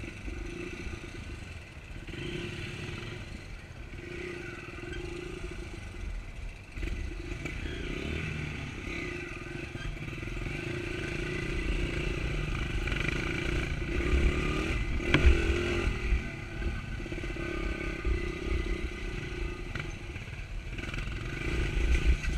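Honda pit bike's small four-stroke engine running while riding, its note rising and falling over a low rumble, loudest about fifteen seconds in and again near the end.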